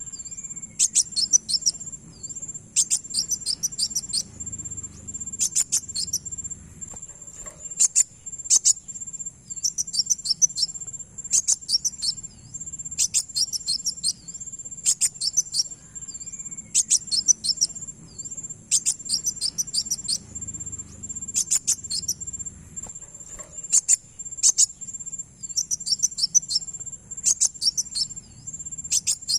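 Kolibri wulung sunbird song used as a lure recording: short bursts of very high, rapid chirping notes every second or two over a steady high-pitched whine. The same sequence repeats about every 16 seconds, as a looped recording does.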